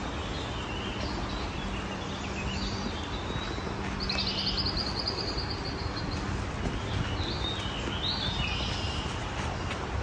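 Several wild birds singing and calling over a steady background hiss of outdoor noise. About four seconds in, one bird gives a rapid trill of quickly repeated high notes lasting over a second, with more short chirps near the end.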